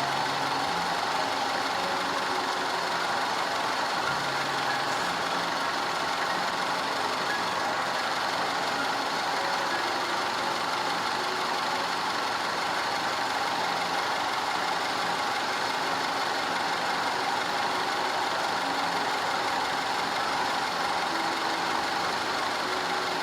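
Audi 2.0 TFSI turbocharged four-cylinder engine idling steadily.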